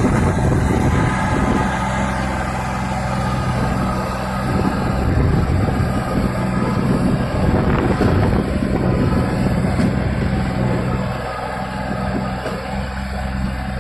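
John Deere 5050D tractor's three-cylinder diesel engine running steadily, pulling a loaded trolley; it eases off slightly about eleven seconds in.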